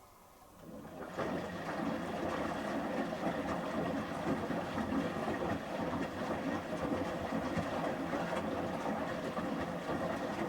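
Samsung Series 5+ front-loading washing machine turning its drum during the first rinse: the motor runs and the shirts and rinse water churn and slosh. It starts about a second in and runs steadily as one tumbling burst between pauses.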